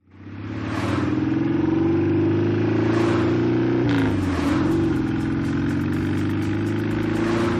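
A cartoon vehicle engine sound effect running steadily. It fades in at the start, and its pitch dips briefly and climbs back about four seconds in.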